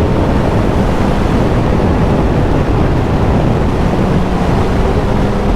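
Heavy wind rushing over the microphone of a motorcycle rider at speed, with the Suzuki's engine running faintly underneath.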